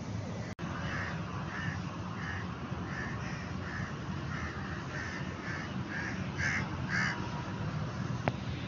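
A bird calling over and over, short harsh calls roughly every half second, the last few loudest, over a steady low background rumble.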